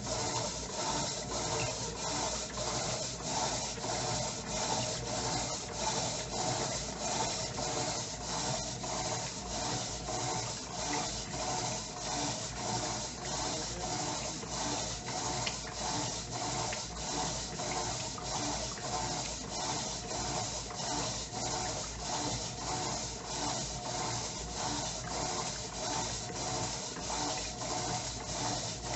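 Electrolux LTE09 top-loading washing machine agitating its load, its agitator swishing clothes and water back and forth in an even, repeating rhythm.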